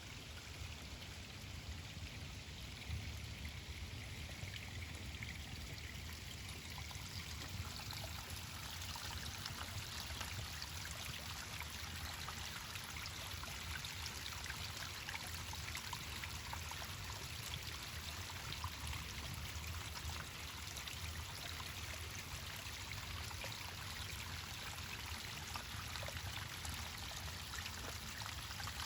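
A small stream running and trickling over stones in a steady splashing rush, growing a little brighter about seven seconds in.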